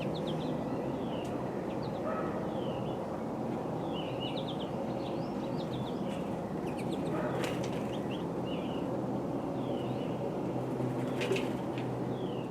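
Small birds chirping, many short up- and down-sliding chirps over a steady low background rumble, with a brief sharp sound near the end.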